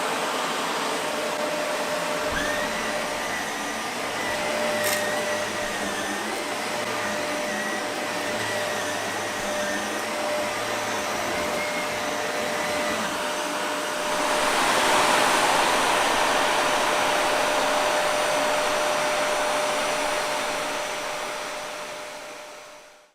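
Shark Navigator Lift-Away NV360 upright vacuum running: a steady rush of air with a constant motor whine. It gets louder about two-thirds of the way through, then fades out at the end.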